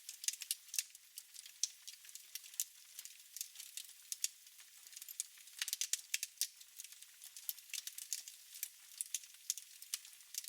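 Wood fire crackling in a fireplace: irregular sharp pops and snaps, several a second, over a soft hiss, with a denser cluster of snaps about halfway through.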